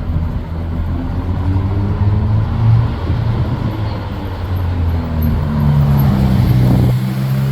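Car engines running in city street traffic: a deep, steady engine hum whose pitch rises about halfway through, as if a car pulls away or revs.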